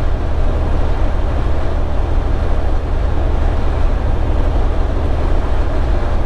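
Steady low drone of a semi-truck's engine and tyre noise while cruising at highway speed, heard from inside the cab.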